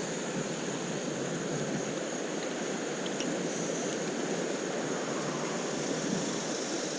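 Creek water running steadily over rocks, an even rushing with no breaks.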